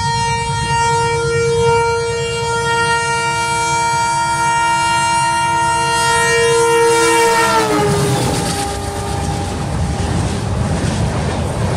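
Train horn sounding in one long chord as the train approaches. Its pitch drops about eight seconds in as the train passes. The horn then gives way to the rumble and clickety-clack of the train rolling by.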